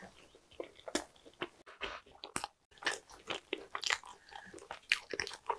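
Close-miked chewing of a soft ham, cheese and cream sandwich: irregular mouth clicks and smacks throughout.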